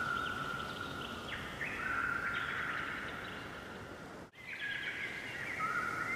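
Several birds singing at once: long, clear whistled notes held steady, overlapped by higher chirping phrases. A brief gap falls a little past four seconds in.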